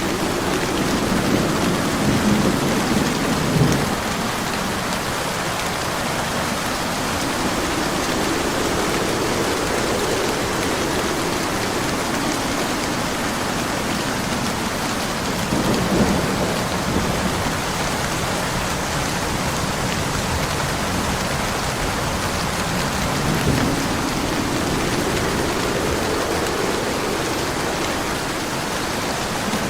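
Steady heavy rain with thunder rumbling several times: in the first few seconds, about halfway through, and again about three-quarters of the way in.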